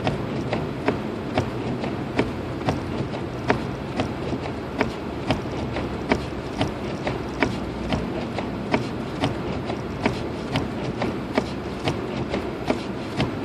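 Hazard-light flasher of a 2006 Lexus IS250 ticking steadily inside the cabin, about two to three clicks a second, over a steady low rumble of engine and tyres.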